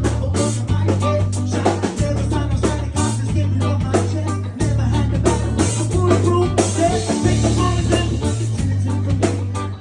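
A live band playing a ska tune, with drum kit, bass guitar and electric guitar; the bass holds steady notes that change about once a second under regular drum hits.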